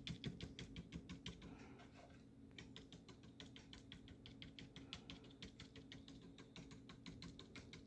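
Faint, quick dabbing of a paintbrush loaded with gouache on paper, several soft taps a second, pausing briefly about two seconds in: stippling strokes for foliage.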